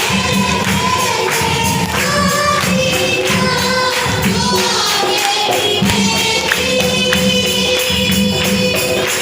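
Group of voices singing a worship song over rhythmic tambourine shaking and percussion.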